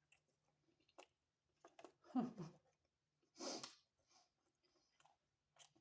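A person eating close to the microphone: soft wet mouth clicks and chewing, with a brief closed-mouth murmur about two seconds in and a short breathy burst about a second later.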